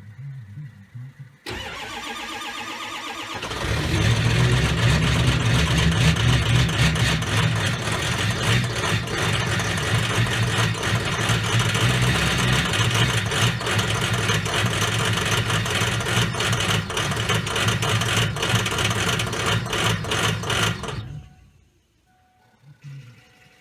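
2006 Ford F-350 Super Duty's 6.0-litre Power Stroke V8 turbo-diesel cold-started at about −20 °C with no block heater plugged in. The starter cranks for about two seconds, then the engine catches and runs loud with a rapid clatter, and the sound cuts off suddenly near the end.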